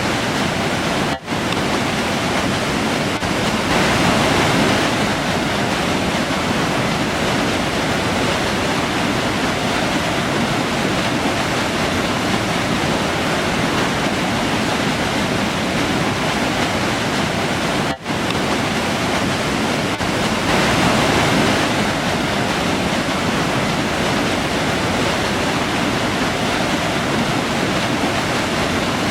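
River water rushing in a steady, unbroken wash of noise, with two momentary dropouts: one about a second in and another a little past the middle.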